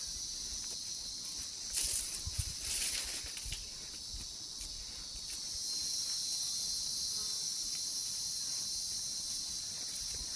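Steady, high-pitched chorus of insects. A few brief rustling noises come about two seconds in.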